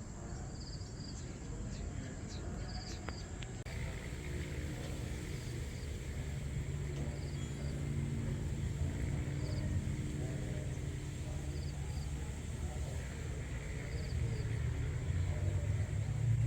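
Outdoor ambience: a steady low rumble, with a faint high double chirp repeating every second or two, like a calling insect.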